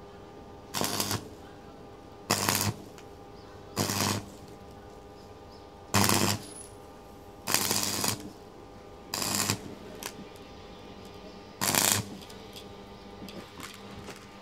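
Electric arc welding on a motorbike exhaust pipe: seven short bursts of crackling arc, each under a second, laid down as separate tack or short welds, over a steady hum.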